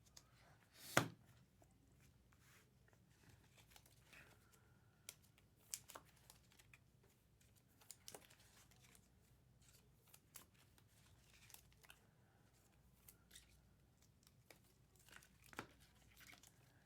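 A trading card box and its packs being opened by hand: faint tearing and crinkling of wrapping, with a sharper rip about a second in and scattered light clicks and rustles after it.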